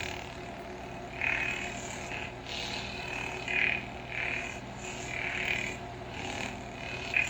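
Sabertrio Senza lightsaber's 'Old Republic Crucible' sound font playing from the saber's speaker. A steady hum runs underneath, with a series of swelling swing sounds about once a second as the blade is moved. It has a sound like an alien.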